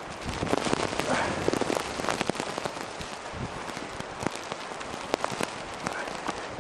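Blizzard wind on the microphone with a dense run of crackling, pattering taps, thickest in the first few seconds and sparser after.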